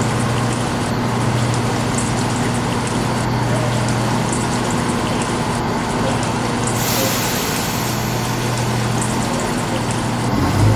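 Diesel train engine idling at a platform with a steady low hum, under a constant hiss. The hiss turns brighter about seven seconds in, and the engine note changes and grows louder near the end.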